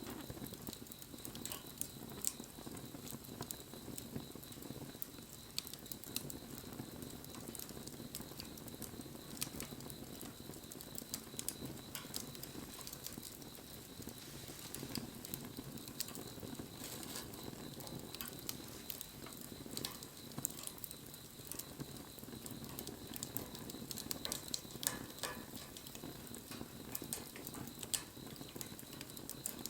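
Wood bonfire crackling and popping: irregular sharp snaps over a steady low rumble of burning flames.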